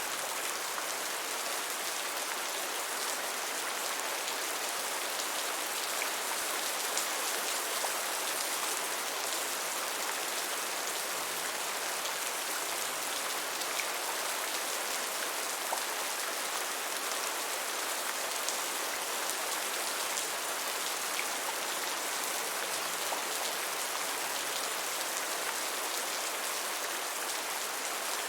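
Steady gentle rain falling on a surface, an even hiss with faint scattered drop ticks.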